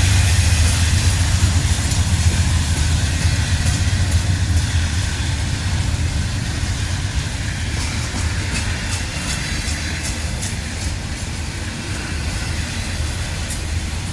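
Diesel-electric locomotive engine of a freight train running with a steady, deep rumble that slowly fades, with a few light ticks in the second half.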